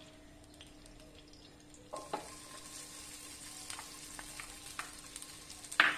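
Boiled diced tapioca scraped from a glass bowl into hot ghee in a frying pan with a wooden spatula, starting to sizzle about two seconds in, with small scrapes and taps. A sharp knock near the end is the loudest sound.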